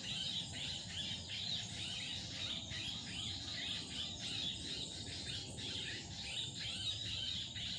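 Wild animals chirping: a continuous chorus of rapid, high-pitched, quiet chirps repeating several times a second, with no break.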